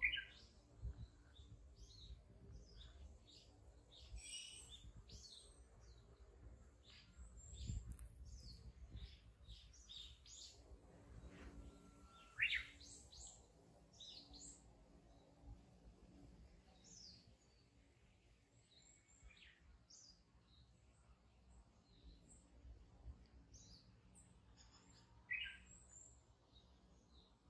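Faint outdoor birdsong: many short, high chirps and calls from several birds, with a louder call about twelve seconds in and another near twenty-five seconds.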